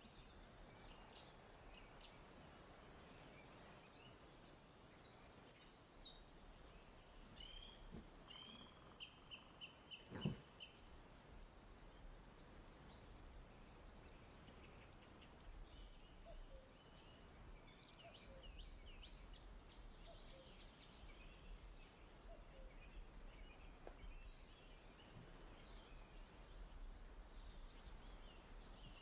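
Small birds chirping and calling faintly, with a quick run of repeated notes about ten seconds in. A single knock sounds about ten seconds in.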